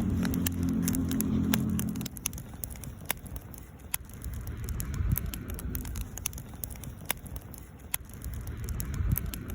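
Wood campfire crackling, with sharp irregular pops throughout. A low steady hum sits underneath for the first two seconds, then cuts off suddenly.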